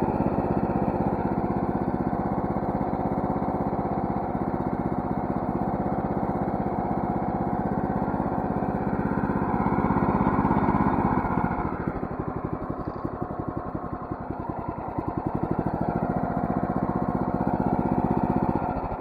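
Predator 212 single-cylinder four-stroke engine running steadily, its speed dipping briefly partway through and picking up again, then dropping away at the very end as it is shut down. The engine is newly installed, and the owner takes it to be burning off debris in the cylinder.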